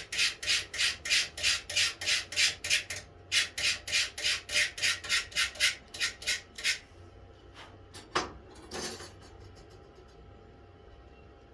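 Rapid, rhythmic abrasive strokes by hand on wood, about three a second, stopping about seven seconds in, then two slower, softer strokes.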